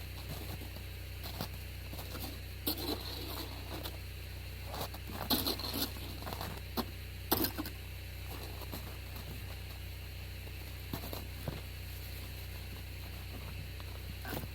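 Hard, crusted snow crunching and scraping in irregular strokes, the loudest cluster a few seconds in, over a steady low hum.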